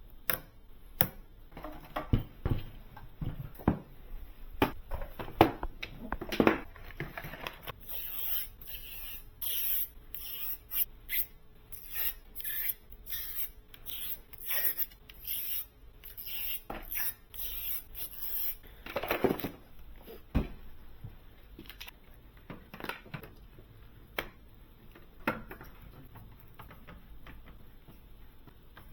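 Irregular clicks, taps and scrapes of computer hardware being handled and fitted during a PC build. The middle holds a stretch of quick, higher-pitched scratching and rustling, and there are a few louder knocks.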